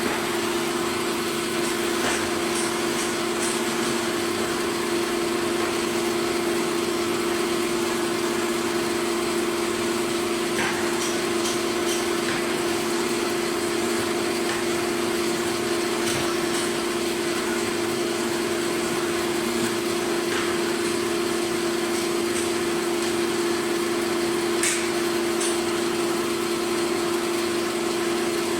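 A machine motor running with a steady, even hum, with a few faint ticks here and there.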